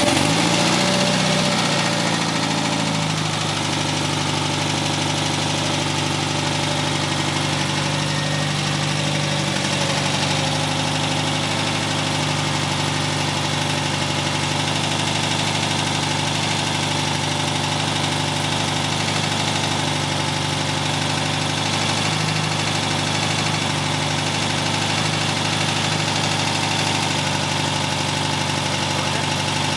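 VW Beetle's 1300 dual-port air-cooled flat-four engine, blipped once so its pitch rises and falls back over the first few seconds, then idling steadily.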